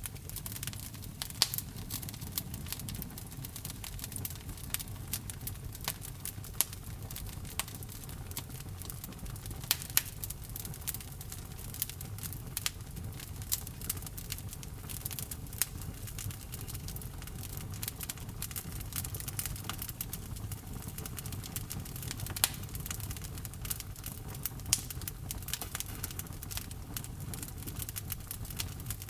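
Wood fire crackling in a fireplace: irregular sharp snaps and pops, a few of them louder, over a steady low rumble of the flames.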